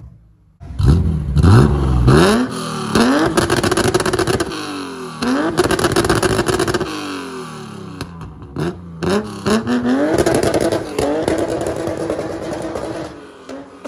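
BMW E39 revved repeatedly through a valved Varex performance exhaust: a couple of quick blips about a second in, then several revs that climb, hold high for a second or two and fall back, with a short break about eight seconds in.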